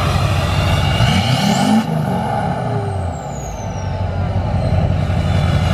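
Truck engine running, with a rev that rises and falls between one and three seconds in, and a thin high whistle sliding down in pitch after it.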